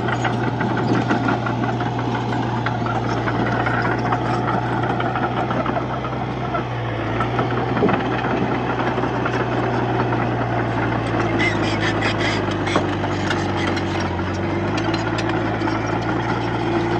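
Komatsu D31-P bulldozer's diesel engine running steadily, its pitch shifting slightly a couple of times, with scattered light clanks.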